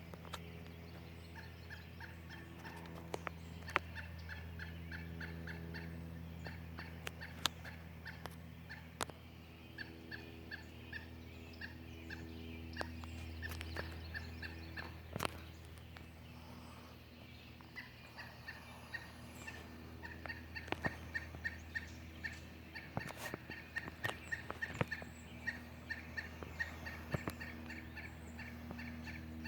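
Woodpecker alarm calls: runs of rapid, rattling notes repeated over and over, with scattered sharp taps. A steady low hum sits underneath.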